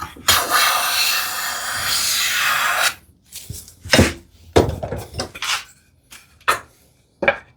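Hand plane taking one long shaving along a board's edge: a steady scraping hiss for about two and a half seconds. It is followed by several short wooden knocks and clatters as the plane and board are handled.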